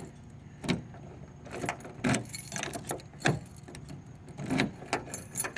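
A bunch of keys jangling and clinking in the hand, with a series of separate sharp clicks and knocks.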